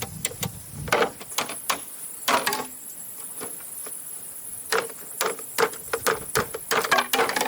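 Irregular sharp knocks and taps of hand tools working bamboo, some in quick runs, over a steady high hiss.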